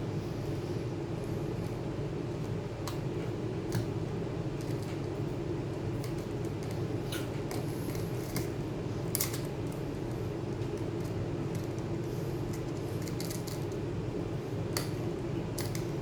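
Scattered small sharp clicks and taps, some in quick clusters, of hand tools and small parts being handled while working inside a MacBook Pro, over a steady low hum.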